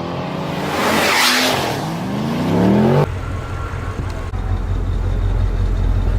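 Audi RS6 C7 Performance's twin-turbo V8 through a Milltek exhaust, accelerating hard with its pitch rising for about three seconds. It cuts off abruptly as the throttle is lifted, then settles to a low steady drone.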